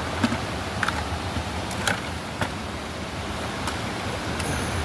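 Steady outdoor rushing noise with about half a dozen light clicks and knocks scattered through it.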